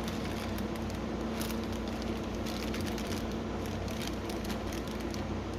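Steady low background hum with a few faint scattered ticks.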